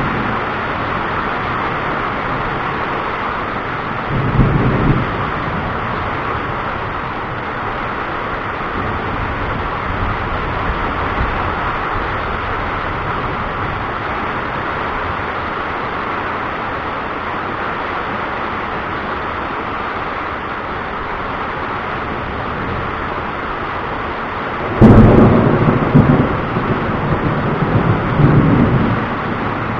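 Thunder over a steady hiss of rain: a short clap about four seconds in, then a much louder crack near the end that rolls on in rumbles for a few seconds.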